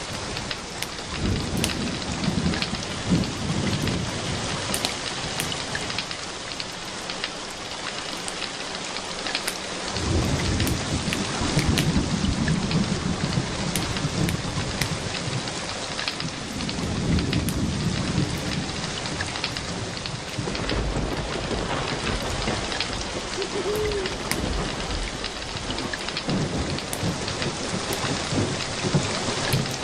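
Steady rain with low rolls of thunder swelling up several times, and sharp crackles of a wood fire in a fireplace scattered throughout.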